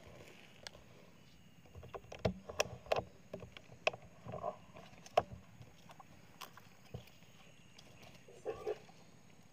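Handling noise: a cluster of sharp knocks and clicks about two to five seconds in, with a few brief rustles, as gear is picked up and moved.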